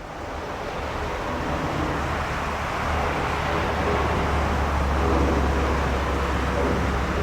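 Boeing 787-9 airliner's jet engines on approach: a steady low rumble with a broad rushing hiss, growing louder over the first couple of seconds and then holding.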